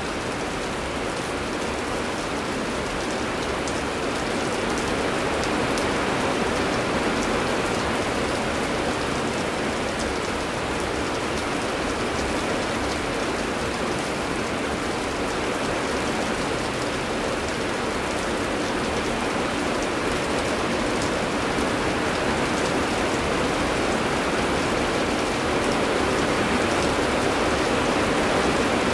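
Heavy, steady rain falling, a dense hiss thick with countless small drop ticks.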